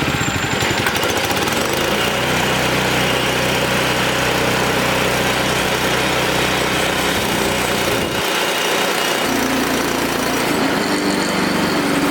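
Wood-Mizer LX25 band sawmill running steadily, its engine driving the blade, with a brief change in the engine note about eight seconds in.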